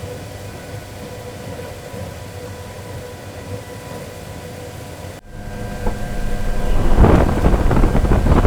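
A steady mechanical hum with a few held tones. About five seconds in, after an abrupt cut, loud wind noise builds up, rumbling and buffeting the microphone, and stays loud.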